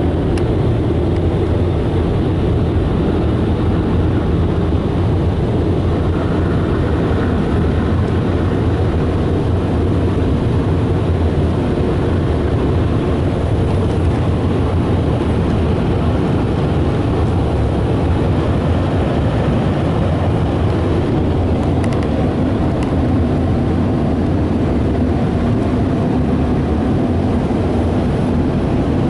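Car wash air dryers blowing a loud, steady rush of air over the car, heard from inside it.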